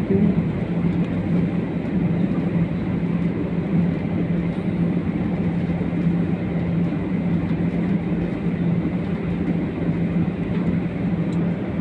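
Steady cabin noise inside a jet airliner taxiing after landing: an even rushing sound under a constant low engine hum.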